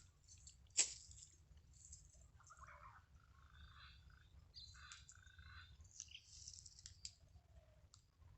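Faint birds chirping and calling in short bursts, with one sharp click about a second in.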